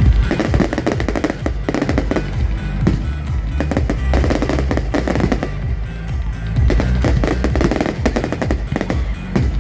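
Fireworks going off in quick succession, a dense run of bangs and crackles, with music playing under them.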